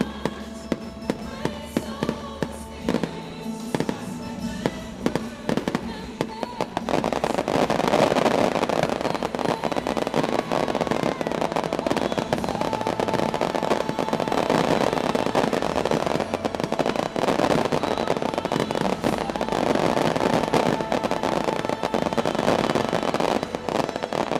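Fireworks bursting over the show's music: separate sharp bangs at first, then from about seven seconds in a dense, unbroken barrage of rapid bangs and crackling.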